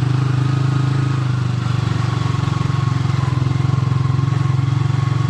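A small engine running steadily at constant speed, with an even, rapid pulsing.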